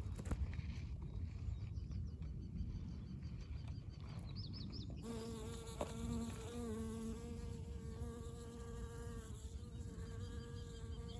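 Honey bee buzzing in flight, a steady hum that comes in about five seconds in and holds to the end. Before it there are a few faint, quick high chirps, over a low rumble.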